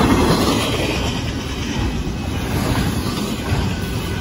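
Union Pacific double-stack intermodal freight train passing fast: a steady low rumble of container well cars rolling on the rails.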